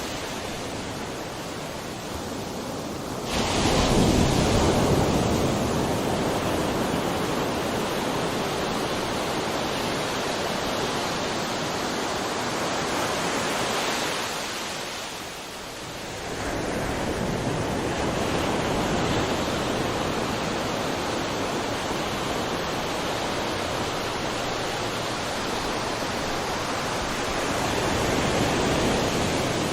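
Ocean waves breaking and washing on the shore in a continuous rush of surf, with a wave crashing in about three seconds in, a brief lull halfway through, then more waves rolling in.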